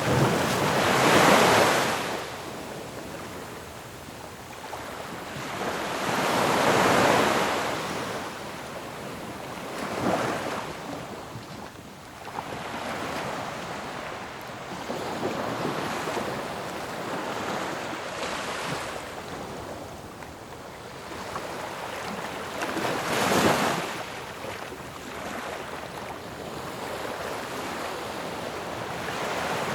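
Ocean waves breaking on a shore, each surge swelling to a loud crash and washing back, with a steady rush of surf between them. Four big breakers come at uneven intervals, the last and sharpest near the end.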